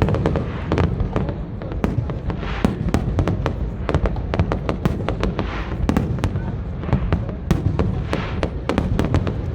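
Aerial fireworks going off in rapid, irregular succession: many sharp bangs and cracks over a continuous low rumble, with brief hissing crackle in between.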